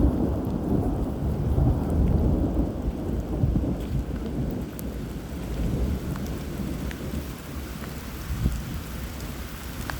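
Thunder from an approaching storm rumbling low and long, loudest in the first few seconds and then slowly fading, over steady rain with scattered drop ticks.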